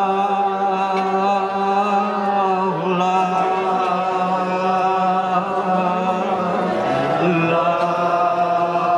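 A voice singing the word "love" as a long, steady held note, like a chant, pausing briefly for breath about three seconds in and again about seven seconds in.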